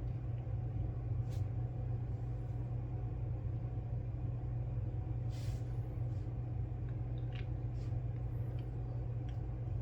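Steady low hum with a faint even background haze, broken only by a few faint light clicks and one brief soft hiss about five and a half seconds in.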